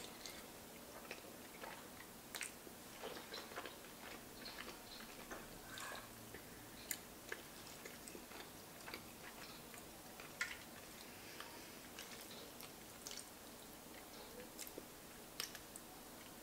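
Faint close-up chewing of a mouthful of soft pasta with ricotta: scattered small wet mouth clicks, with a few sharper clicks as the spoon scoops from the pan.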